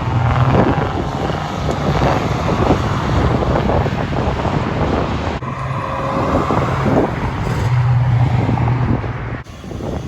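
Car engine running loudly, with a strong low drone; the sound changes abruptly about five seconds in and again near the end.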